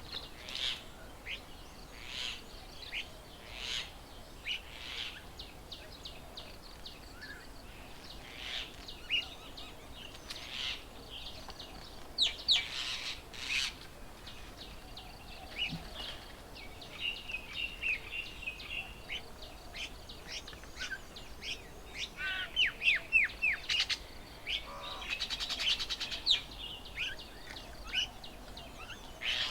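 Several wild birds calling and chirping, with many short, high notes scattered throughout and a quick run of down-slurred notes a little past the middle.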